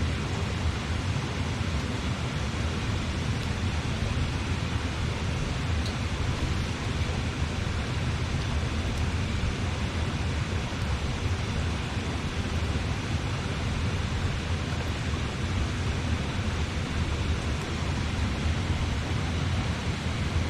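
A river rushing steadily, an even wash of water noise.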